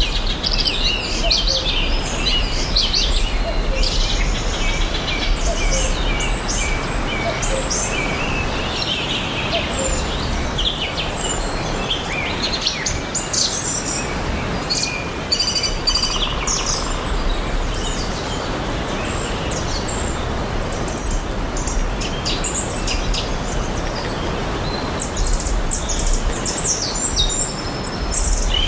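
Many wild birds chirping and singing over a steady background rush of natural noise, with short quick calls and trills following one another throughout.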